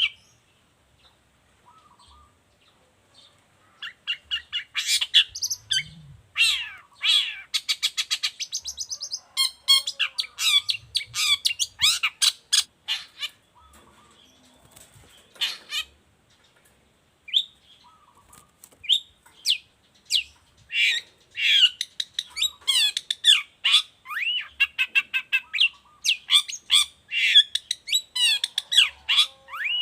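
Long-tailed shrike (cendet) singing hard: long runs of rapid, harsh chattering notes and squawks, starting about four seconds in, pausing briefly around the middle, then running on densely to the end.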